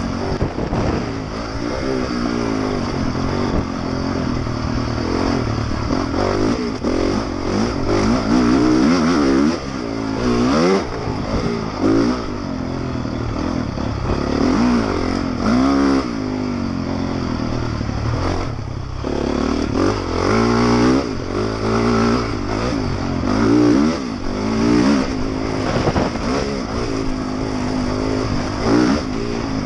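Honda motocross bike's engine under racing load, its pitch sweeping up again and again as the throttle is opened through the gears and dropping back between sweeps, with a short lift of the throttle about two-thirds of the way through. Heard from the rider's helmet camera.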